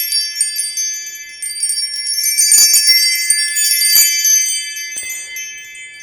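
Chime bar tuned to A (432 Hz) ringing a steady high tone, under a shimmer of many short, high tinkling chime notes that are struck again about a second and a half in and fade away toward the end.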